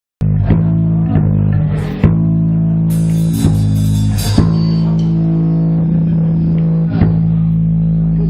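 Punk rock band playing live: loud bass and guitar holding long low notes, with a few drum hits and a burst of cymbal crashes about three to four seconds in.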